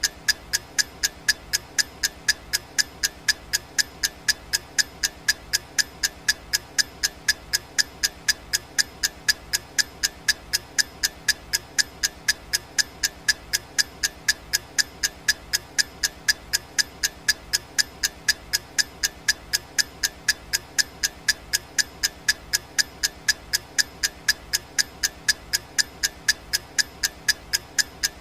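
Clock ticking sound effect: sharp, evenly spaced ticks, two or three a second, steady throughout, marking off a countdown timer.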